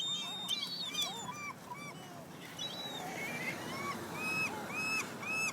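A crowd of gulls calling over one another in short, repeated cries, several a second. Higher-pitched cries take over about halfway through.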